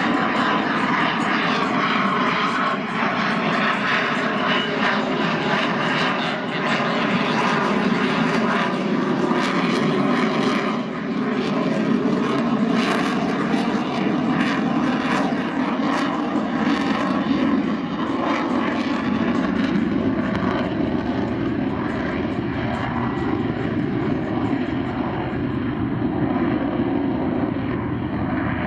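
Fixed-wing airplane's engine droning steadily as the airplane makes a slow pass.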